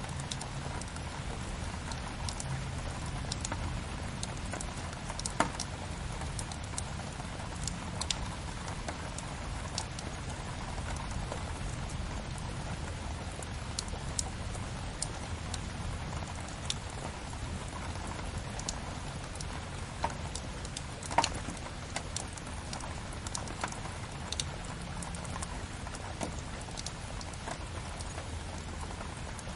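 Steady rain with a wood fire crackling over it: an even hiss of rain broken by scattered sharp pops and snaps, the loudest a little past 21 seconds in.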